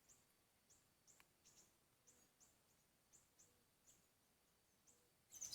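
Faint siri-siri bird calls: short, high chirps that fall in pitch, repeated irregularly about twice a second, with a louder flurry of chirps near the end. They are the calls used to lure the bird, from the MP3 lure or from a bird answering it.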